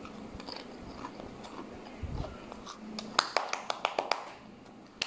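Chewing and crunching of crispy baked-potato snack puffs in the mouth, with a quick run of sharp crackly crunches about three seconds in.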